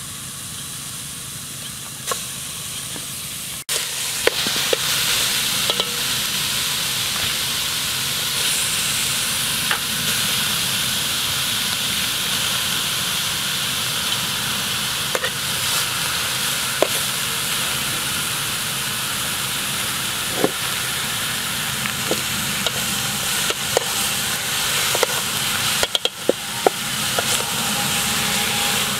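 Chicken pieces frying in a yellow spice paste in a metal pot over a charcoal stove: a steady sizzle that starts abruptly a few seconds in, with scattered light clicks of a spoon stirring against the pot.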